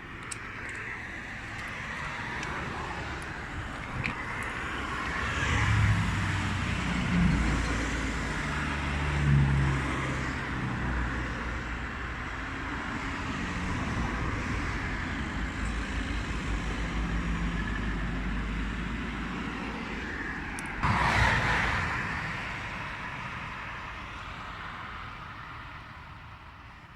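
Jet airliner engine noise, a steady rush that surges suddenly louder about two-thirds through and fades near the end, with wind buffeting the microphone.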